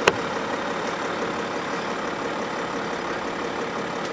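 Audi Q7 idling steadily, with one sharp click of the driver's door handle and latch right at the start. The engine cuts off near the end.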